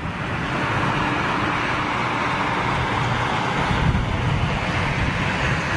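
Jet airliner engine noise, a steady rushing roar with a low rumble that swells in the first second and then holds.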